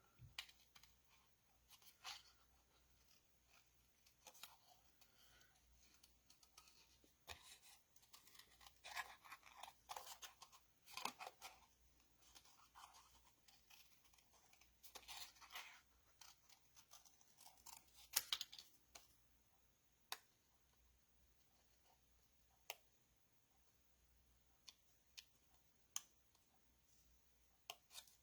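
Small scissors snipping cardstock, faint, in runs of quick short snips as a small stamped image is cut out by hand, then only a few single snips spaced apart near the end.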